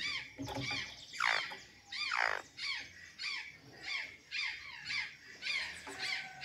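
Azure jays calling: a quick run of short, arching squawks, about two a second, with two longer calls sliding downward around one and two seconds in.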